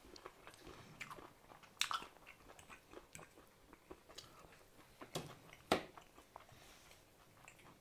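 Faint, close-up chewing and mouth sounds of a man eating mashed potato, with a few short, sharp clicks.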